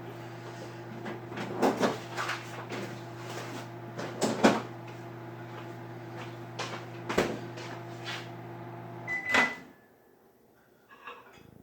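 Microwave oven running with a steady hum, broken by several sharp knocks. About nine seconds in it gives a single beep and the hum stops as the cooking time runs out.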